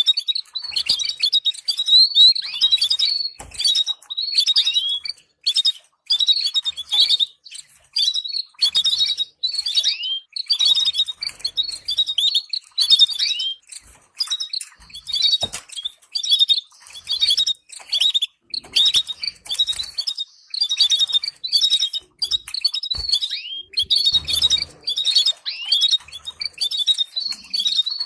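Caged finch singing a fast stream of high, twittering chirp phrases broken by brief pauses. It is a song-training recording for canaries and goldfinches.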